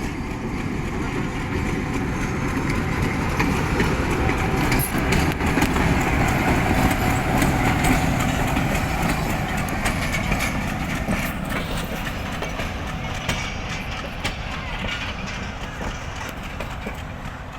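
Pakistan Railways GRU-20 diesel locomotive running as it shunts a power van, a heavy engine rumble with scattered clanks. It grows louder to a peak about halfway through, then slowly fades as it moves away.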